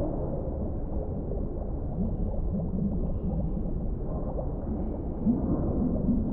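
Underwater ambience: a steady, deep, muffled rumble of water with low wavering gurgles rising out of it a couple of times, about two seconds in and again near the end.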